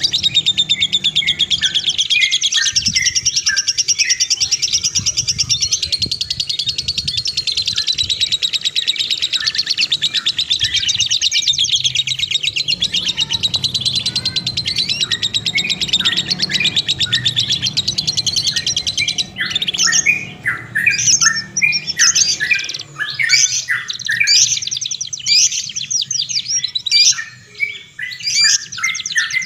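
Songbirds singing a fast, high-pitched, unbroken chattering trill. About two-thirds of the way through it changes to louder, separate sharp chirps in quick succession.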